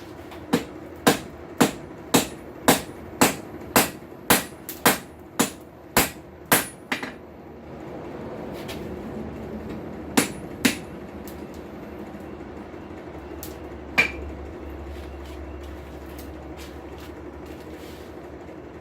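Hand hammer striking hot steel on an anvil while a tong blank is shaped: a steady run of sharp blows at about two a second for some seven seconds, then two more blows around ten seconds in and a single blow near fourteen seconds, over a steady hum.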